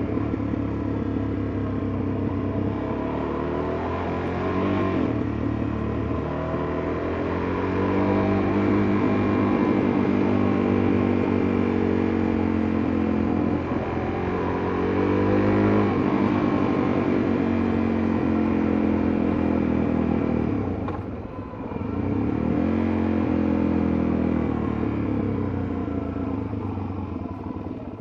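Suzuki DR-Z400S single-cylinder four-stroke engine running through its muffler while riding, the engine note climbing and sagging several times with the throttle, with a short drop in sound about three quarters of the way through.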